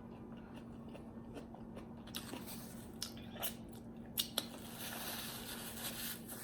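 Close-up mouth sounds of biting and chewing crunchy food: a few soft clicks, then crisp crunches and chewing from about two seconds in.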